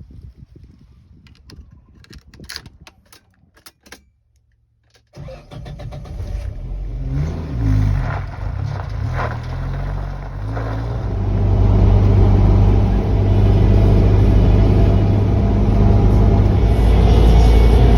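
A few sharp clicks, then a car engine starts about five seconds in, revs up and down a few times, and settles into a loud steady run.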